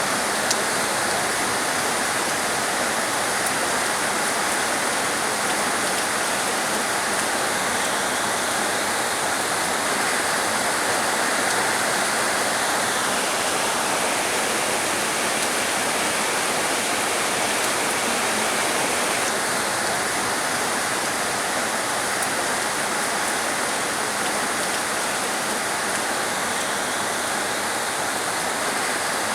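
Heavy rain falling steadily: a dense, even hiss with no single drops or other events standing out.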